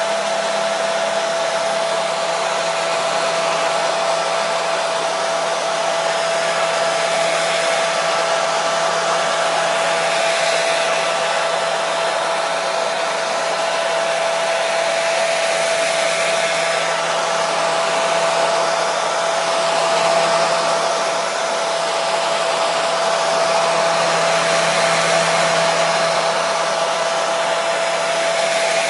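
Hair dryer running steadily: an even rush of blown air with a constant mid-pitched whine over it, unchanging throughout.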